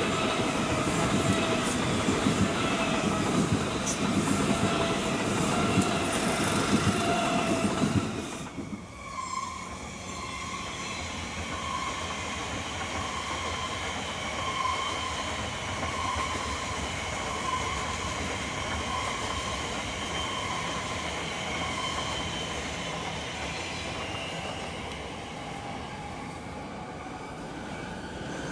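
A Great Western Railway Class 387 electric train runs close past with a loud rumble of wheels on rail, which ends abruptly about eight seconds in. An Elizabeth line train then passes further off, quieter, with a high whine that pulses about every second and a half.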